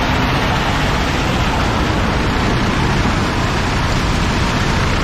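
Western Star dump truck's diesel engine running steadily, an even, unbroken engine noise.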